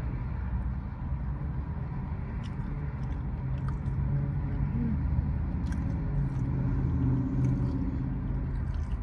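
Wet chewing and scattered lip-smacking clicks from someone eating a cheesy birria taco. Under it runs the steady low rumble of the car running.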